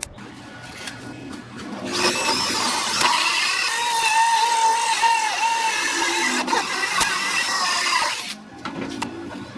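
A small electric power tool's motor whining under load, its pitch wavering, starting about two seconds in and cutting off about two seconds before the end.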